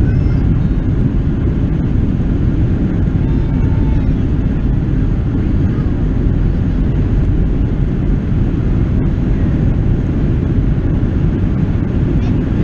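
Steady, loud low rumble of a Boeing 737-700's jet engines and airflow heard inside the passenger cabin, with no change in pitch or loudness.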